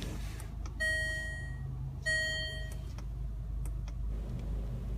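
Range Rover Evoque's cabin electronic chime beeping twice: two identical steady tones about a second apart, each lasting under a second. A few faint clicks and a low steady hum lie under it.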